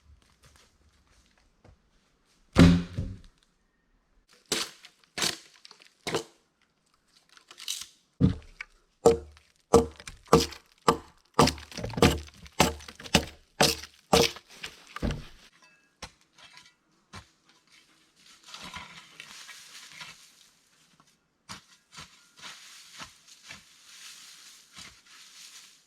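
Hand tools working wood: one heavy blow, a few single strikes, then a steady run of sharp blows on wood at about two a second. Near the end comes a rasping, scraping noise.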